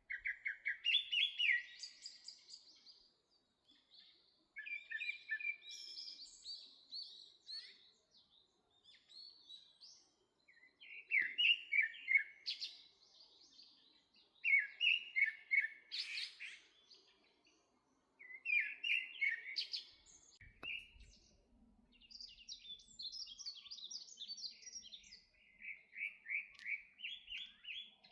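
A songbird singing, repeating a rapid, high, twittering phrase of two to three seconds every few seconds.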